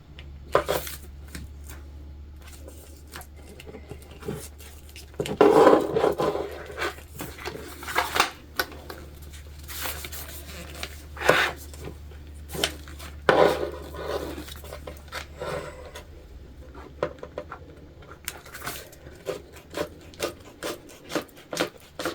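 Jelly vinyl being trimmed and handled on a work table: scattered clicks and taps of the cutting tool and clips, with louder rubbing scrapes about five and a half and thirteen seconds in, over a steady low hum.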